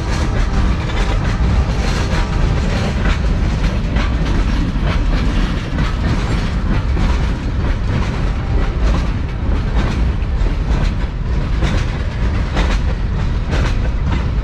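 Freight cars of a long manifest freight train rolling past, a steady low rumble with wheels clacking over rail joints in an uneven stream of clicks.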